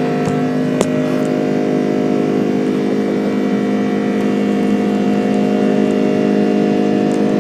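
Airbus A330-300 jet engines heard from inside the passenger cabin: a steady, loud drone made up of several held tones over a rushing noise, with a single short click about a second in.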